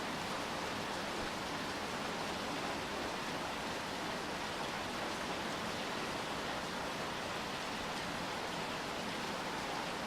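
Steady rain falling, an even hiss of drops with no distinct patter or gusts.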